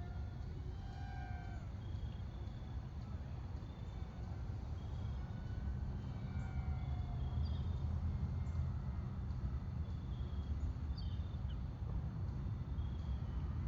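Birds chirping in short scattered calls over a steady low rumble of wind on the microphone.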